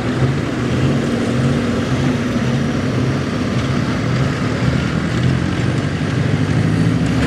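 Gasoline 4x4 pickup truck engine running hard under load as it pulls a weight-transfer sled, loud and holding a steady pitch.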